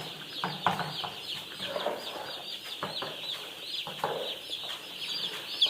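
A large flock of broiler chicks peeping all at once: a dense, continuous chorus of short, high, falling cheeps, with a few faint knocks mixed in.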